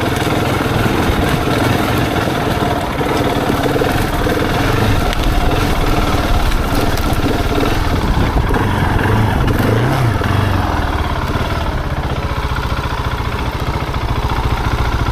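Husqvarna 701 single-cylinder motorcycle engine running steadily under way as the bike is ridden along a lane, with the revs shifting a little around the ten-second mark.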